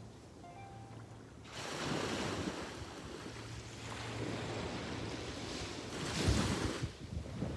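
Sea waves washing onto a beach: a quieter lull, then a wave surging in about a second and a half in, and a louder one breaking about six seconds in.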